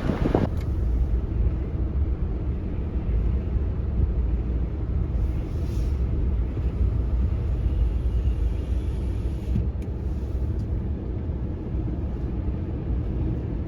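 Steady low road rumble of a car driving, heard from inside.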